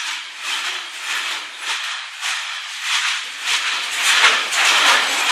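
Freight train passing close by: a rushing hiss of wheels on rail that swells and eases in quick, repeated surges as the wagons roll past.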